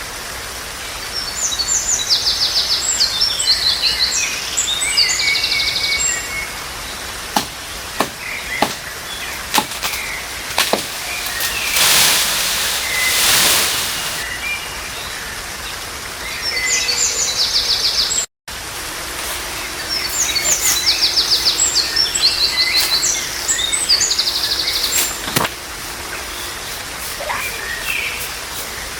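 Songbirds singing outdoors in fast, repeated high trills, in two long passages. Between them come a few sharp knocks and a brief rushing sound.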